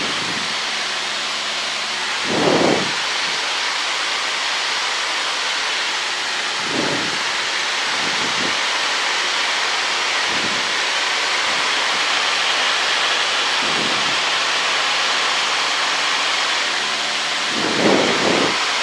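Steady cabin noise of a Cessna 152 in flight: the four-cylinder Lycoming O-235 engine at cruise and the rush of air over the airframe, heard as an even hiss. A few brief low swells rise out of it, the strongest about two seconds in and near the end.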